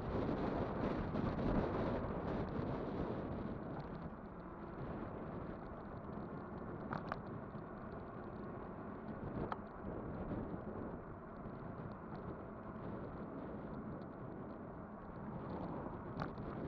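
Wind buffeting the microphone and road rumble while riding an electric bike, a little louder for the first couple of seconds. A few sharp clicks or rattles stand out, about seven seconds in, again a couple of seconds later, and near the end.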